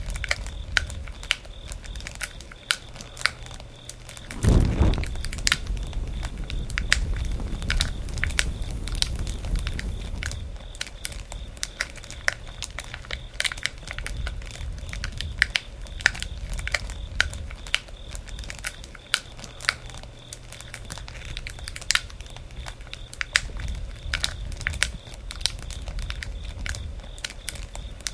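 Wood campfire crackling, with irregular sharp pops and snaps over the low rumble of the flames. About four and a half seconds in there is one louder, low rush.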